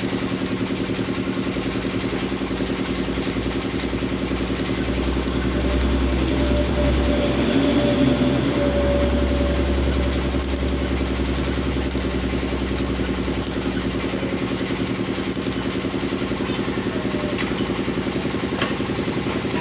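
Suzuki Futura van engine running through its newly welded exhaust, a steady even note that grows somewhat louder for a few seconds near the middle.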